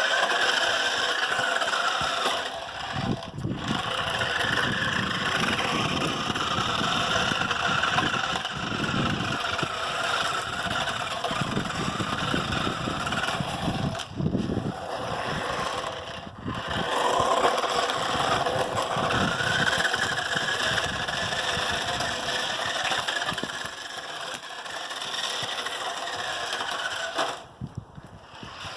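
Small electric motor of a toy remote-control car whining, its pitch rising and falling as it speeds up and slows. The wheels add a rolling noise underneath, and it drops out briefly a few times.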